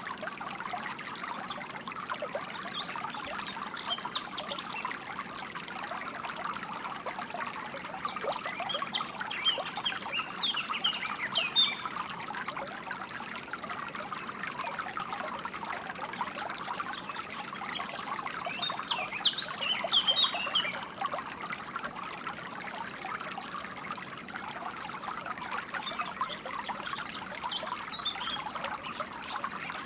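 Shallow water trickling and flowing steadily, with songbirds chirping in short clusters of quick high notes every several seconds.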